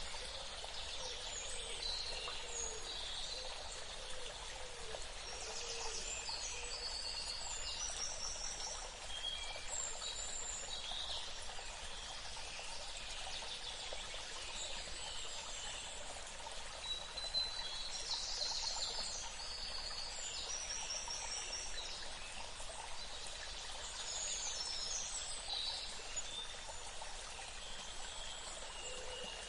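Birds chirping and calling, with short high trills every few seconds, over a steady rush of running water.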